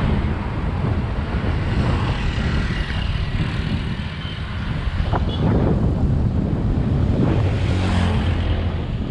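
Motor vehicle engine noise and wind on the microphone, heard from a moving bicycle on the road; the engine hum is strongest a little before the end.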